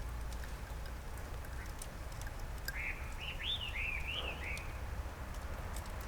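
A bird calling in a quick run of five or six squeaky, arched notes about three seconds in, over a steady low outdoor rumble.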